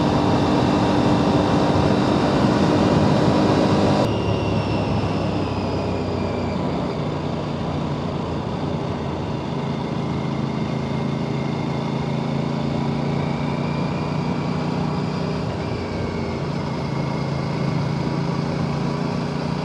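Aprilia RS 457's parallel-twin engine running at a steady pace under way, with wind rushing past. The sound drops a little in level about four seconds in.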